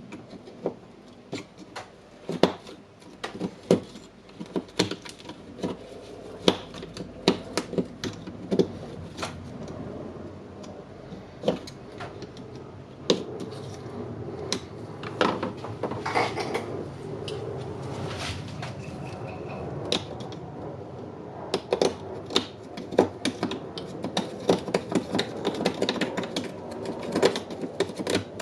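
Hand-tool work on the burned plastic housing and wiring of a cordless rotary hammer drill: irregular sharp clicks, taps and light scraping, in busy clusters with short pauses.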